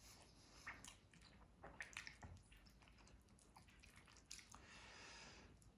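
Close-miked eating sounds: a mouthful of chicken biryani being chewed, with soft wet squishes and small clicks as fingers gather more rice. A soft hissing stretch comes near the end.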